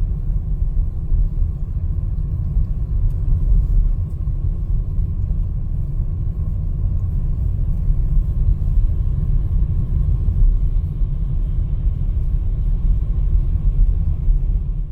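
Low, steady rumble with its weight in the deep bass, cutting off suddenly at the end.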